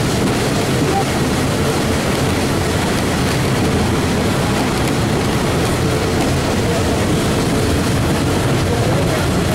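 Passenger train running on the rails, heard from inside an open-sided passenger car as a steady, even running noise.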